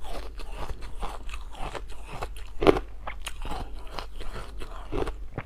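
Ice being bitten and chewed close to the microphone: a run of sharp crunches and crackles, loudest about two and a half seconds in.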